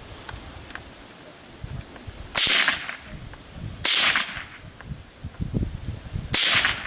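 .22 LR rifle firing three shots: the first about two and a half seconds in, the second about a second and a half later, and the third near the end. Each is a sharp crack with a short tail.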